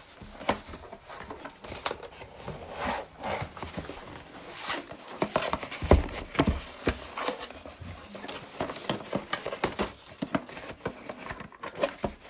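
Packaging being opened and handled by hand: cardboard and plastic wrapping rustling and crinkling, with many small clicks and knocks and a heavier knock about six seconds in.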